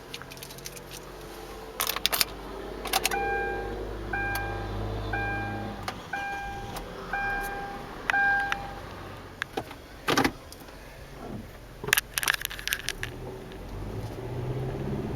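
A Hyundai Elantra Touring's warning chime beeping about six times at an even pace, with keys jangling and several sharp clicks. A low hum under the first few seconds stops about six seconds in.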